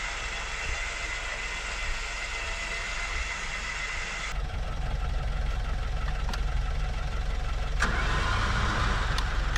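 A vehicle engine running steadily, its sound changing abruptly twice.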